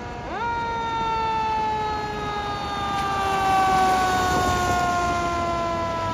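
Fire truck siren: its pitch shoots up sharply about a third of a second in, then slides slowly down, over the noise of the passing truck, which is loudest a little past the middle.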